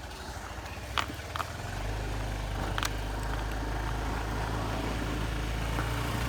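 Motorbike engine running with a low rumble that becomes louder and steadier about two seconds in, with a few sharp clicks in the first three seconds.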